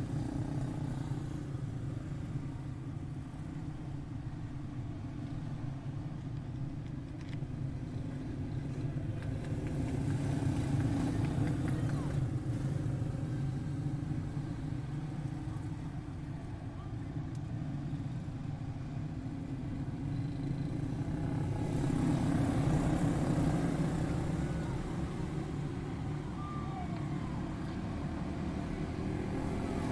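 Quarter midget race cars' Briggs & Stratton Animal single-cylinder four-stroke engines running together at race speed as the field laps the track. The sound swells twice as the pack comes past.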